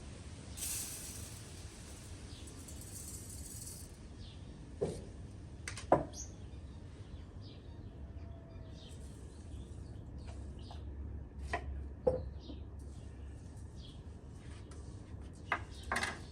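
Scattered sharp knocks and clinks of kitchen utensils and dishes being handled during cooking prep, with a brief hiss near the start and faint birds chirping in the background.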